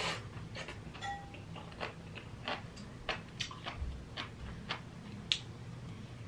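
Close-up chewing of a crunchy mouthful of soybean-sprout stir-fry, with short crisp crunches about twice a second and one sharper crunch near the end, over a low steady hum.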